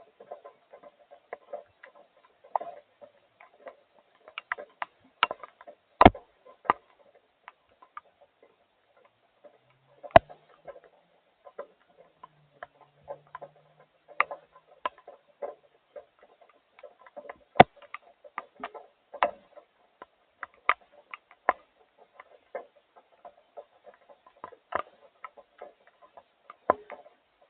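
Raindrops tapping irregularly on a hard surface, with a few louder single drops among the light ones.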